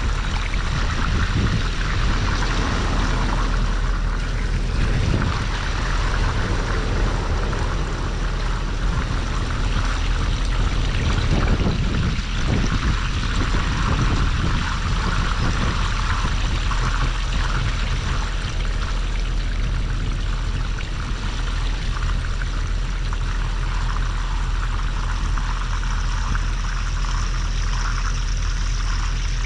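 Water pouring steadily out of a broken underground PVC waterline into the dug-out hole: the pipe has pulled out of its gasket joint and the line is still draining.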